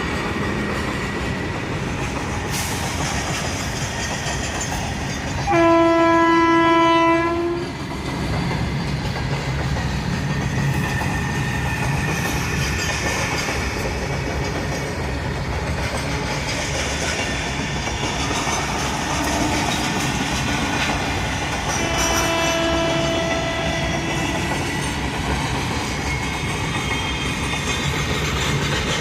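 A train running, with a steady rumble and clatter of its wheels. Its horn sounds loudly for about two seconds, about six seconds in, and again more faintly for about two seconds near the 22-second mark.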